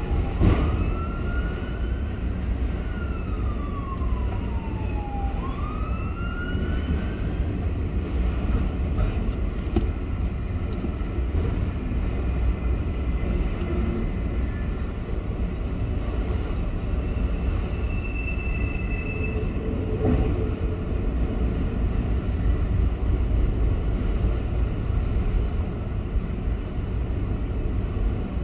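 Freight train of autorack and double-stack container cars rolling past a grade crossing, a steady low rumble. For the first several seconds a siren wails up and down over it.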